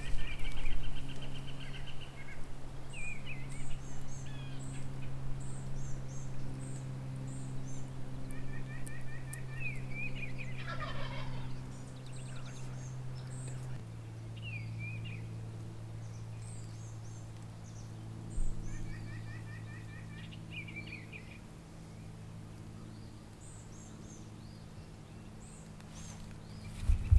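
Wild turkey gobbler gobbling several times, roughly every ten seconds, answering a hunter's calls. Small songbirds chirp in the background.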